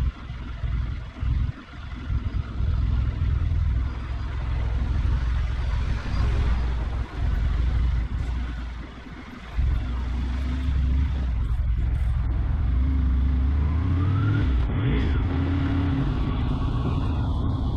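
Motorcycle running on the road, with heavy low wind rumble on the microphone that surges and drops out and an engine note that rises in the second half.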